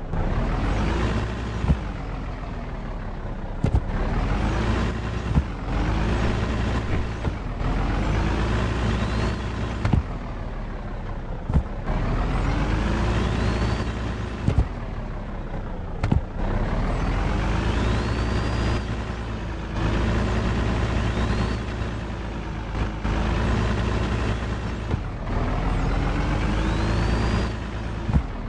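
Truck engine running, its pitch climbing and then falling back over and over, about every two seconds, with sharp clicks where the pitch drops.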